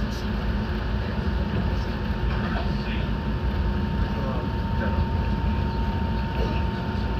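Enoden electric train heard from inside the car: a steady low rumble with a thin, constant high tone over it.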